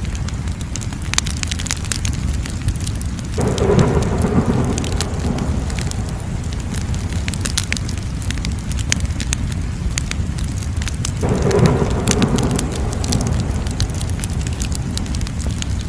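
Wood fire crackling, with a steady low rumble of burning and many sharp pops and snaps. Twice, a few seconds in and again later on, a louder rush of flame starts suddenly and fades over a couple of seconds.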